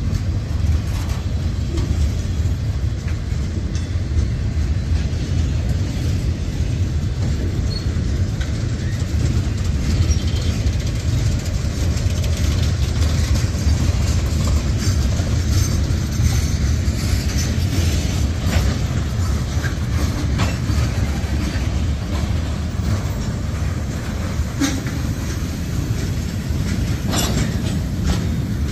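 Freight cars of a mixed freight train rolling past: a steady low rumble of steel wheels on rail, with scattered clicks and clatter as the wheels cross rail joints.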